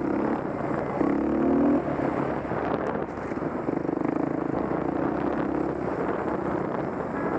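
Dirt bike engine running while being ridden, its note shifting up and down with the throttle.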